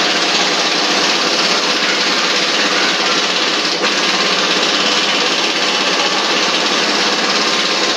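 A machine running loudly and steadily, with a fast, even mechanical rattle.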